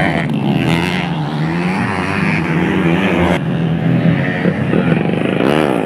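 Several motocross motorcycle engines running at once, their pitch rising and falling with the throttle; near the end one bike revs sharply up and back down.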